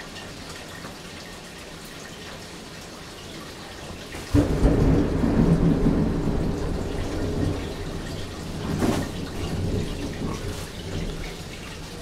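Steady rain hissing, then about four seconds in a sudden loud thunderclap that rumbles on for several seconds and slowly dies away, with a second sharp crack of thunder near the end.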